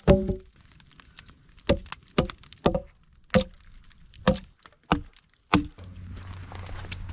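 Wood being chopped: about eight sharp strikes at uneven intervals, each with a short ringing knock. A steady low hum comes in near the end.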